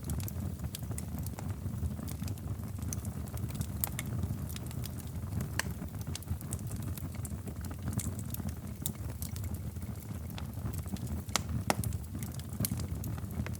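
Wood fire burning in a fireplace: a steady low rumble of flames with frequent sharp, irregular crackles and pops. One pop near the end is louder than the rest.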